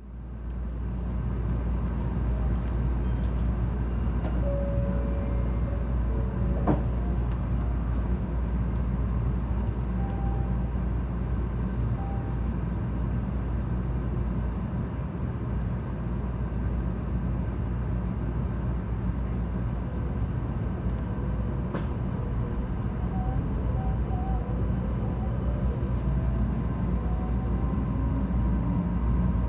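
Cabin noise inside a 700 series Shinkansen running on the Tokaido line: a steady deep rumble, with a couple of faint clicks along the way.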